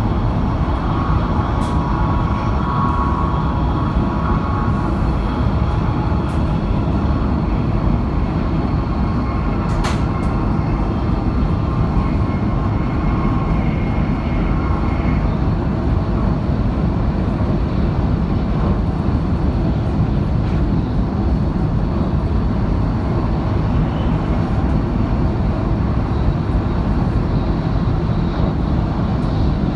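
High-speed train running at speed: a steady, even rumble and rush of noise, with a faint thin whine in the first few seconds and a couple of sharp clicks.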